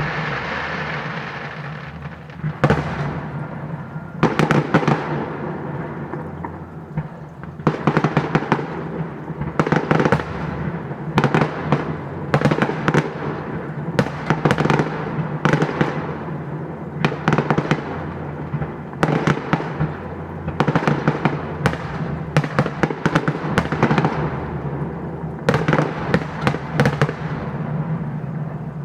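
Fireworks display: volleys of sharp bangs and crackling shell bursts follow one another every second or two, each trailing off in a crackling decay, over a steady low hum.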